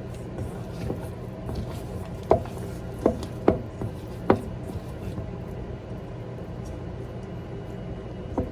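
Kitchenware knocking: four sharp knocks within about two seconds, and one more near the end, over a steady low hum.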